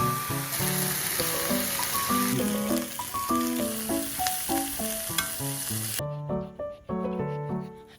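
Food sizzling in a pan under light background music; the sizzle cuts off suddenly about six seconds in.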